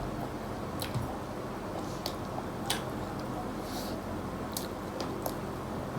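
Eating sounds: chewing, with a few short sharp clicks spaced roughly a second apart, over a steady low hum.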